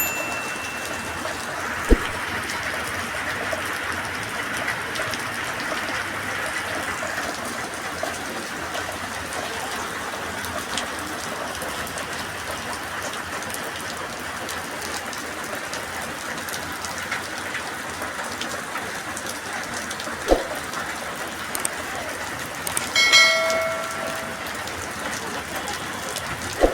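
Steady rain falling, a continuous even hiss, with a few sharp knocks and a short pitched tone lasting about a second near the end.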